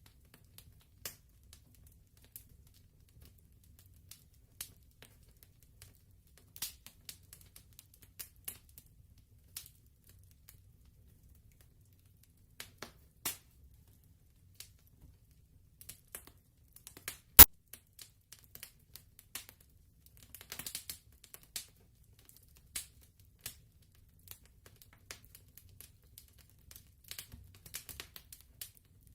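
Wood fire crackling: scattered small snaps and pops, with one much louder pop a little past the middle, over a faint low rumble.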